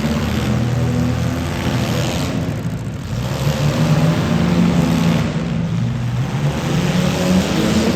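Demolition derby car engines running and revving, their pitch rising and falling unevenly; there is a short dip about three seconds in.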